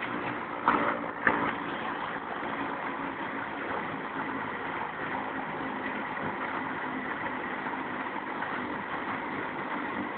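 Helicopter engine and rotors running steadily close by, its downwash strong enough to nearly knock a person over. Two short sharp knocks about a second in.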